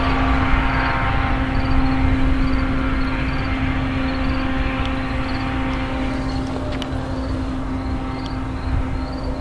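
NJ Transit diesel commuter train pulling away: a steady engine hum and wheel rumble that slowly fade as it draws off. A grade crossing bell dings about one and a half times a second throughout.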